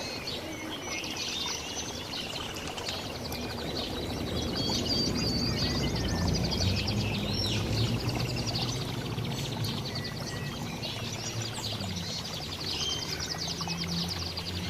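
Several small songbirds chirping and singing rapid trills over a steady rushing background noise.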